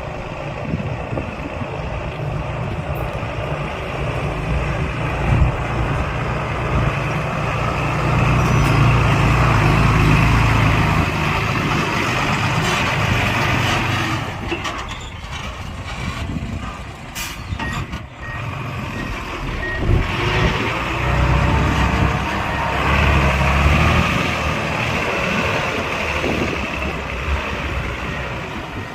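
Heavy diesel earthmoving machinery running and working, the engine swelling and easing in level, with a reversing alarm beeping briefly about two-thirds of the way through.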